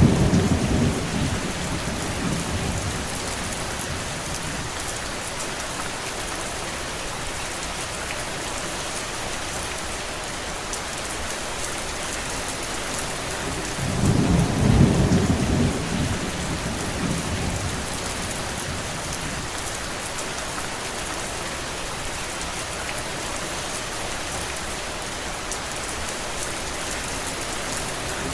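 Steady heavy rain, an even hiss, with a low rumble swelling for a couple of seconds at the start and again about halfway through.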